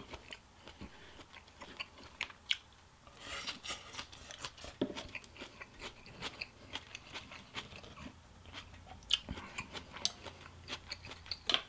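A person chewing a mouthful of pho noodle soup close to the microphone, with many small crunches and mouth clicks.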